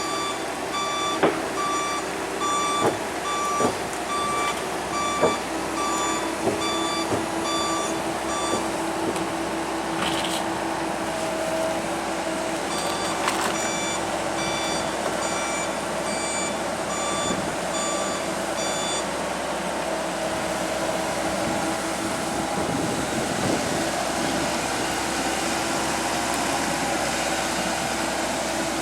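Komatsu hydraulic excavator running, its travel alarm beeping at about two beeps a second in stretches that stop and start again, with a few sharp knocks in the first several seconds.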